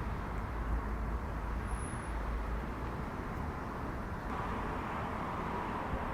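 Steady background rumble and hiss of ambient noise, like distant road traffic, with a faint steady hum coming in about four seconds in.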